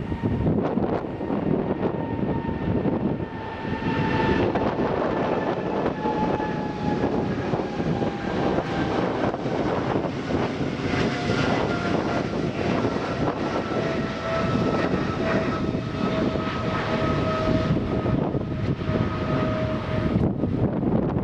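Jet airliner engines running: a steady rush with a whine that slowly falls in pitch and stops near the end.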